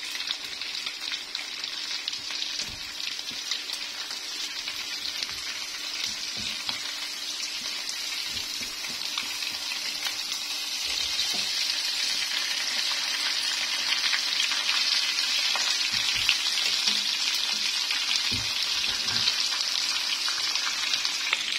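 Marinated chicken pieces sizzling as they shallow-fry in oil in a kadhai, with scattered light knocks as the pieces are turned over; the sizzle grows louder about halfway through.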